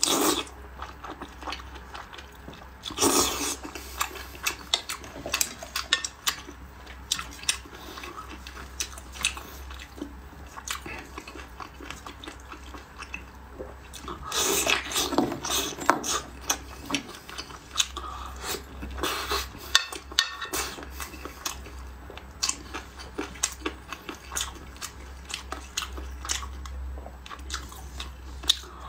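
Close-up wet chewing and biting of sauce-glazed teriyaki chicken and rice, a run of short moist mouth clicks and squelches. The sounds are louder and denser about three seconds in and again around fourteen to sixteen seconds in, as new bites are taken.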